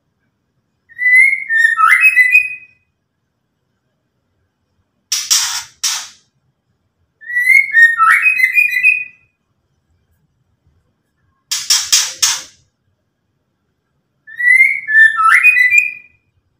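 White-rumped shama (murai batu) calling. It gives a short whistled phrase three times, each about two seconds long. Between the phrases come two harsh, rasping chatters, the 'ketrekan' call.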